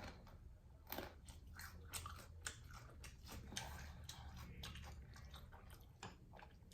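Close-up chewing of food: faint wet mouth clicks and smacks coming irregularly, several a second.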